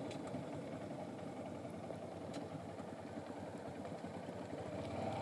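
Motorcycle engine idling steadily, heard faint and muffled through a microphone inside the rider's helmet.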